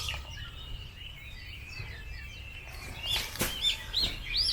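Small birds chirping, a quick run of short rising-and-falling chirps in the last second and a half, with one sharp click about three and a half seconds in.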